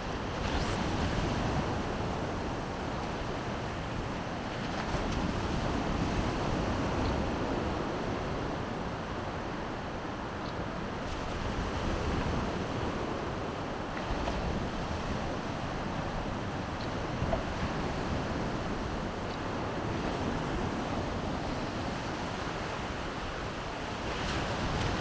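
Baltic Sea surf breaking on the shore, a steady wash that swells and eases every several seconds, with wind rumbling on the microphone.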